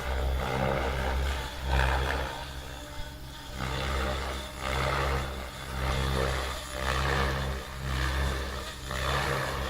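Radio-controlled 3D stunt helicopter flying aerobatics: its rotor blades whoosh in surges that rise and fall every second or so over a steady low drone.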